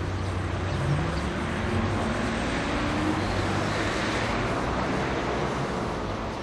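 Diesel-hauled freight train running, a heavy rumble with a steady low hum and an engine note that rises in pitch over the first few seconds as it gathers speed.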